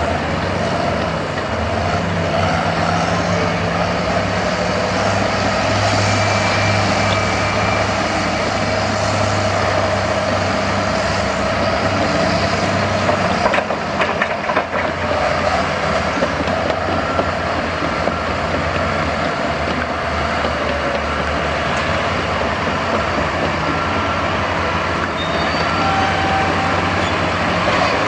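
Heavy diesel engine of a construction tipper truck running steadily. A short cluster of knocks comes about fourteen seconds in.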